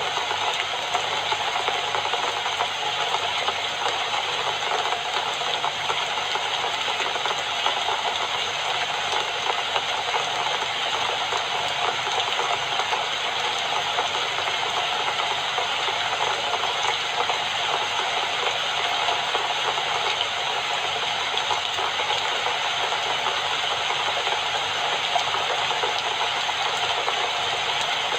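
Steady rain falling, an even, dense patter that stays the same throughout.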